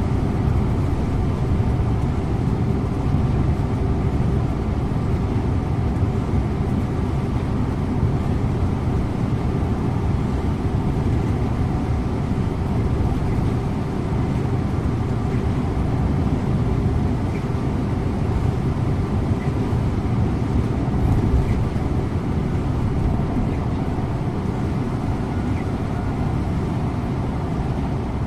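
Scania InterLink bus driving steadily: a constant low rumble of engine and road noise, heard from the driver's seat.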